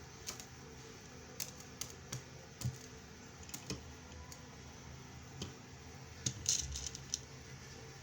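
Scattered light clicks and taps at uneven intervals, with a quick run of them about six and a half seconds in, from small hard items being handled at the bench.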